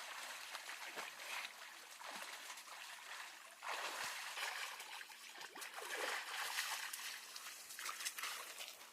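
Water trickling and splashing, with many small irregular splashes and drips over a steady hiss.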